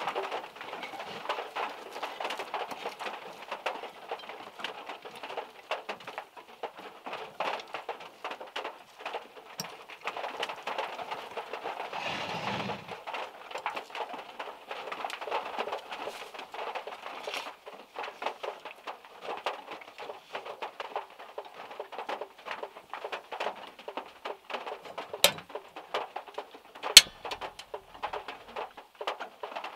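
Raindrops dripping from the trees and pattering on a small car's roof, heard from inside the car, a dense steady patter with a couple of louder single drops hitting near the end.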